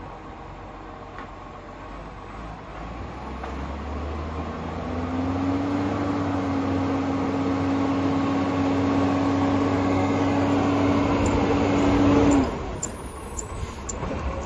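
Garbage truck engine revving up with a steady mechanical whine, typical of the hydraulics working the bin lifter. It cuts off suddenly about twelve seconds in and is followed by a few short clunks.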